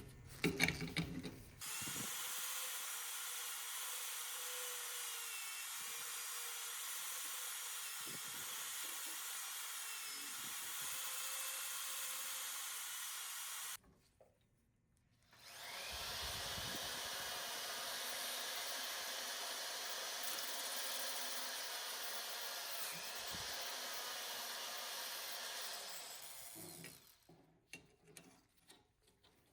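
A small power tool running steadily in two long runs, about twelve and eleven seconds, with a brief stop between them, working on parts of an old hand plane. A few knocks of handling come near the start and the end.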